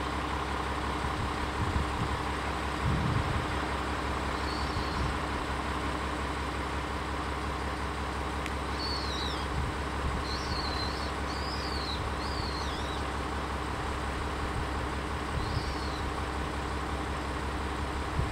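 Isumi 200-series diesel railcar idling with a steady engine hum, with a couple of low knocks in the first few seconds.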